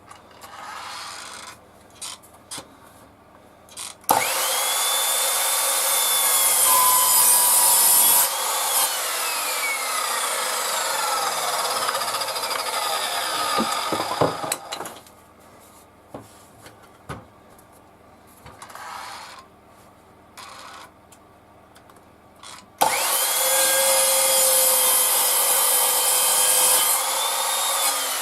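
Electric saw cutting wood, run twice: each time the motor spins up to a steady high whine and cuts, then winds down with a long falling whine after it is switched off. Light knocks of wood being handled come between the two runs.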